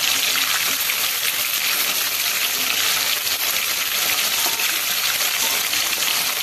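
Chicken pieces frying in hot oil in a pan, giving a steady, dense sizzle with fine crackling.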